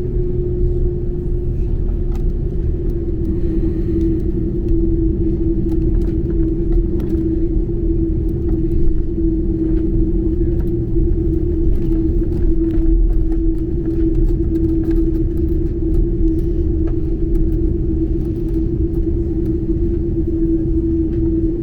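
Airbus A330-200 cabin noise: a steady low rumble with a constant engine hum.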